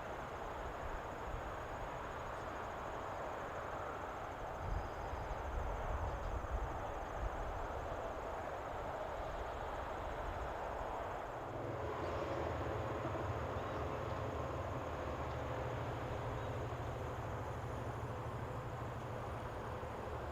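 Steady vehicle running noise; about twelve seconds in, a low hum and a few steady tones come in and hold. A faint high insect trill runs underneath.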